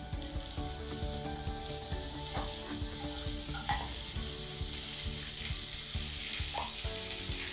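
Chopped elephant-foot-yam stems sizzling steadily in a hot nonstick frying pan as boiled chickpeas are tipped in from a glass bowl and pushed with a wooden spatula, with scattered light taps.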